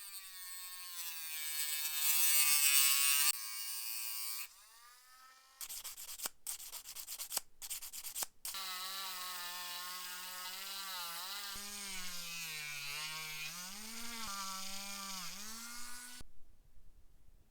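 A small electric rotary tool runs against the metal lighter parts, rubbing and grinding. Its whine dips in pitch and recovers as it is pressed on. It stops partway, there are a few seconds of scratchy strokes and clicks, and then it runs again until near the end.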